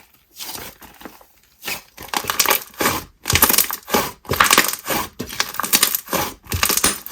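Inflated jelly slime being squeezed and pressed by hand, making crackling squishes about twice a second from about two seconds in.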